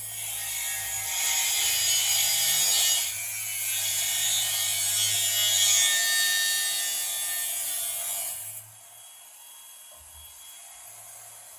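Power tool cutting or grinding, running steadily with a brief dip about three seconds in, then stopping well before the end.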